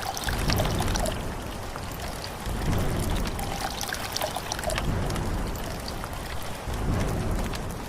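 Water pouring and trickling steadily, with scattered small clicks and a low rumble that swells every couple of seconds.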